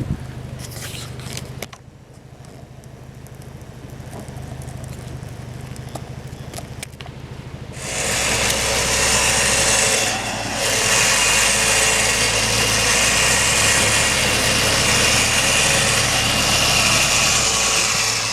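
Off-road vehicle engine running steadily, then about eight seconds in a much louder steady rushing noise rises over it and carries on, dipping briefly a couple of seconds later.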